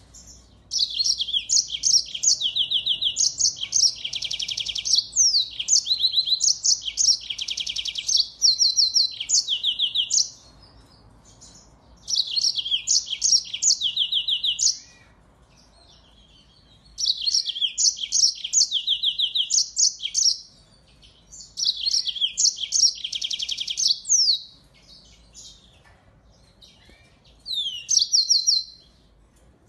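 Small finch singing: high-pitched bursts of rapid trills and chirps. The longest burst runs about nine seconds near the start, and shorter bursts follow with brief pauses between them.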